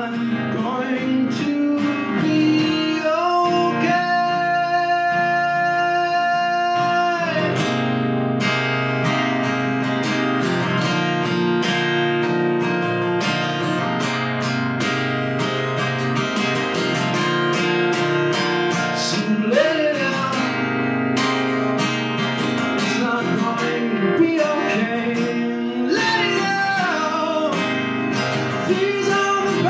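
Acoustic guitar strumming through an instrumental break in a song, with a lead melody line on top that slides into a long held note a few seconds in and bends again later.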